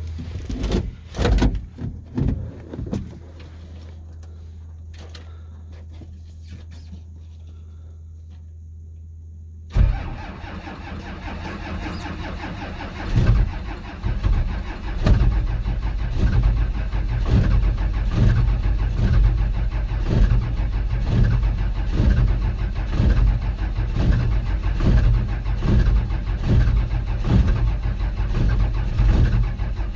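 Starter cranking a cold 12-valve Cummins turbo diesel, starting suddenly about ten seconds in and chugging in a slow, even rhythm as the engine turns over without yet running. This is a cold start in below-zero weather with no preheater. A few knocks come first.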